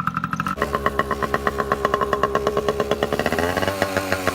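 Pit bike's small engine running with a rapid pulsing beat, its note shifting about three seconds in.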